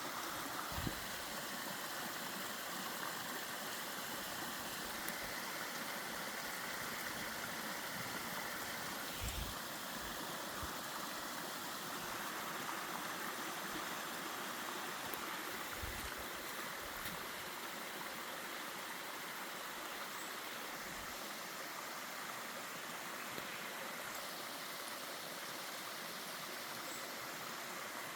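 Mountain stream rushing steadily over rocks, with a few soft low thumps.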